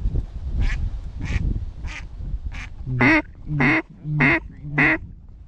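Mallard hen quacking: a steady series of eight quacks about 0.6 s apart, the first four faint and the last four loud and close. Low wind rumble runs under the first half.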